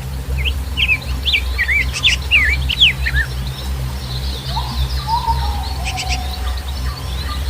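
Wild birds singing: a run of quick, sweeping chirps for the first three seconds, then high trills and a lower drawn-out whistle about halfway through. A steady low rumble runs underneath.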